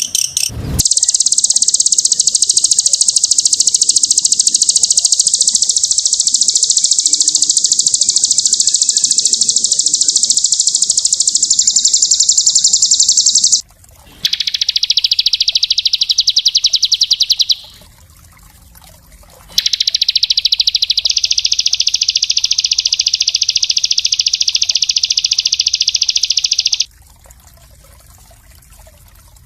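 Small songbird singing a very fast, dense, high-pitched trill, the rapid-fire 'tembakan' used in bird-tutoring recordings. There is one long run of about twelve seconds, then shorter runs of about three and seven seconds with brief pauses between.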